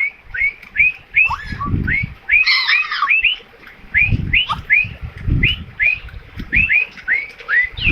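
Parrot calling in a run of short rising chirps, about three a second, with a louder, harsher call about two and a half seconds in. A few low muffled thuds sound in between.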